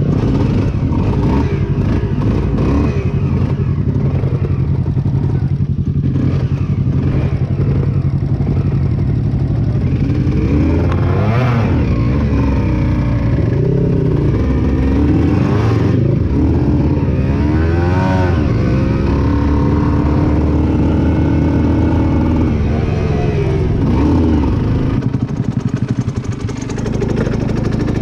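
Aprilia RS 125 single-cylinder motorcycle engine running, its revs rising and falling several times before settling lower near the end.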